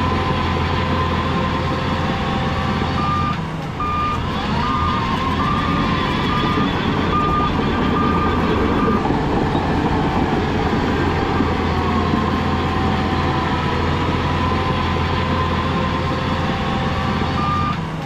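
Heavy earthmoving machine's diesel engine running steadily under a whine that rises and falls in pitch, with a back-up alarm beeping in an even series about three seconds in and again near the end.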